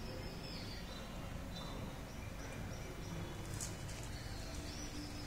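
Birds chirping in the background, short high calls a few times, over a steady low rumbling background noise.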